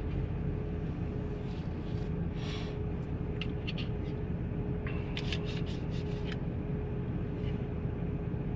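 Steady low rumble of a van running, heard from inside the cab, with a constant hum over it. A few light clicks and rattles come through around the middle.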